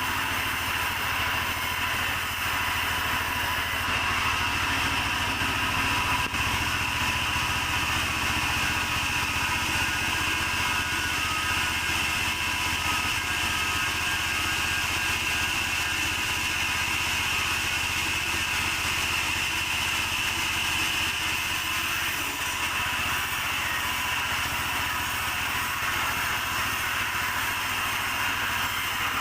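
Sawmill saw running steadily while mahogany is sawn into beams: a constant engine drone under a steady high whine, with no breaks.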